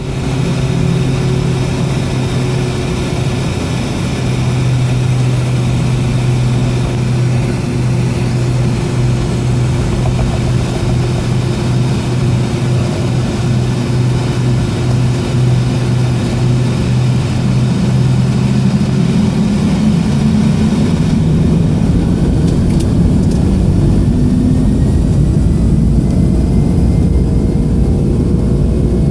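Boeing 757's Pratt & Whitney PW2037 turbofans at takeoff thrust, heard from inside the cabin as a loud, steady low hum with rushing noise. About twenty seconds in, the low tones shift and a faint rising whine comes in.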